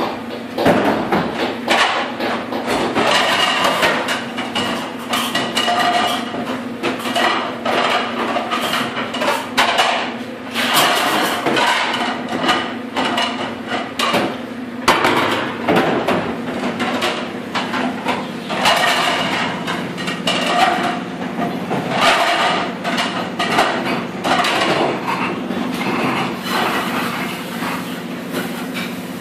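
Ceramic plates and wire dish racks clattering and clinking in quick, irregular knocks as they are handled and stacked at a dish station, over a steady hum.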